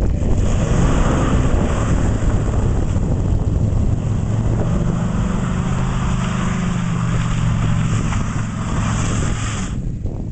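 Dodge Ram SRT-10 pickup's 8.3-litre V10 running at high revs during a burnout, with a loud hiss from the spinning rear tyres over the engine note. The high hiss cuts off suddenly near the end while the engine keeps running.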